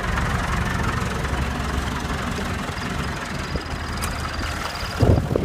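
UTB 550 tractor's diesel engine idling steadily after a cold start, a low rumble with a knocking beat. A sudden louder rush of noise comes in near the end.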